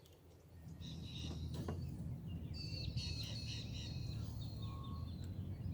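Wild birds chirping and trilling in short phrases, with a low steady rumble underneath that comes up about half a second in.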